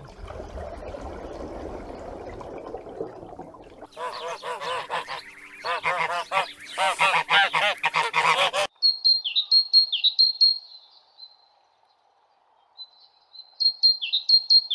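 Birds calling: a run of loud, quickly repeated honking calls, then after a short quiet gap, high thin chirps with quick downward flicks near the end. A faint rushing noise comes before the honking.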